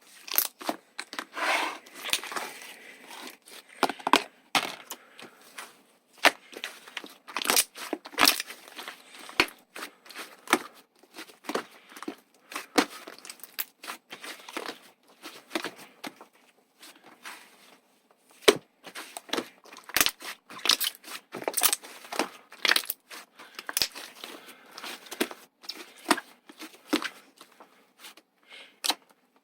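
Slime being squished and pressed by hand: an irregular run of sharp pops and clicks with crackly squishing between them.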